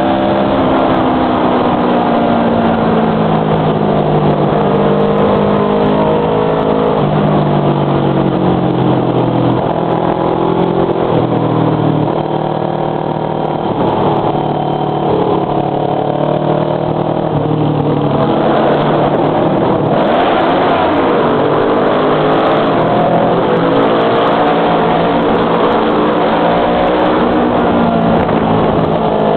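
Motorcycle engine with a loud muffler, heard from the bike while riding: the note rises and falls with the throttle and steps in pitch at the gear changes.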